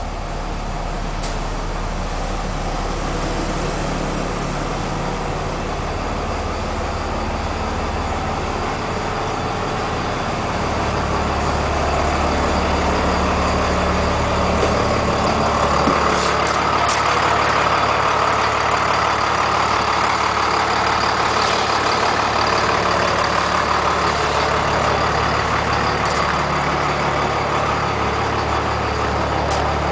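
Heavy diesel bus engine, the Cummins 5.9-litre turbo diesel of a 1999 Blue Bird TC2000, running steadily; its low drone shifts in pitch about nine seconds in and grows louder from about twelve seconds in.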